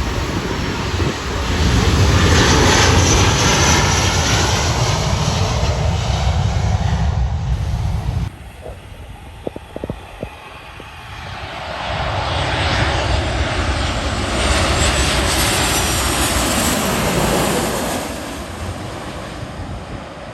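Aircraft engines running loudly as a fixed-wing plane passes low overhead, cut off suddenly about eight seconds in; after a short lull a second aircraft pass swells up and fades away near the end.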